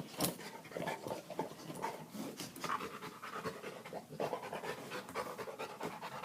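A dog panting rapidly and steadily, out of breath from the exertion of chasing and worrying a metal padlock.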